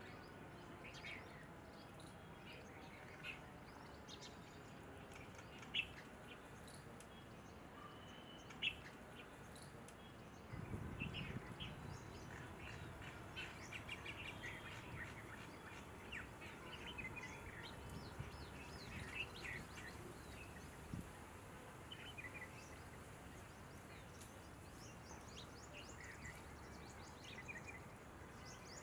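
Faint bird chirps and calls scattered throughout over a steady background hiss. Two sharp clicks come about six and nine seconds in, and a low rumble lasts a couple of seconds from about ten seconds in.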